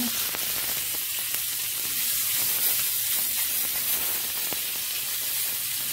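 Raw pork Italian sausage meatballs frying in hot melted butter in a pan: a steady sizzle, with a couple of faint clicks as more meatballs are set in.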